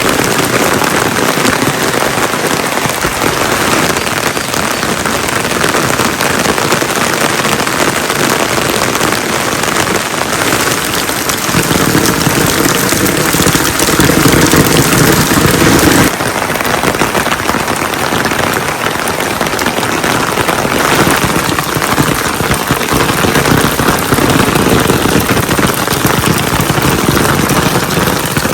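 Heavy rain pouring down, a dense, steady hiss. Its sound changes abruptly about halfway through, as at a cut between two recordings.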